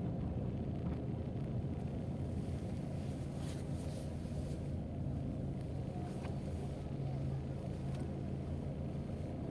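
Steady low rumble with a faint hum, like a running vehicle, with a few faint clicks.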